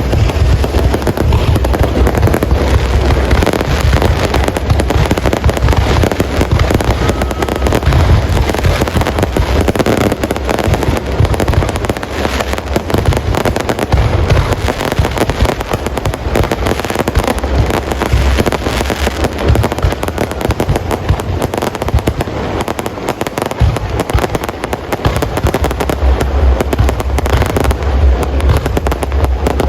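Aerial fireworks display going off without a break: dense crackling and popping over frequent deep booms, easing slightly for a while past the middle.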